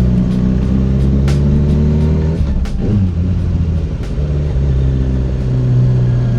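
Motorcycle engine running steadily under way, with a short dip and recovery in engine pitch a little past halfway, like a gear change.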